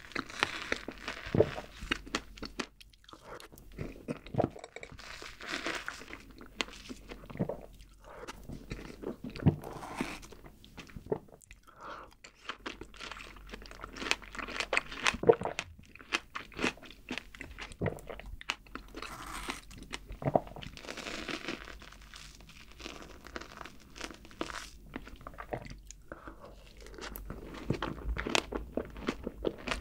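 Close-miked eating sounds: wet chewing and mouth smacks from mouthfuls of whipped cream eaten off a fork, with frequent short sharp clicks.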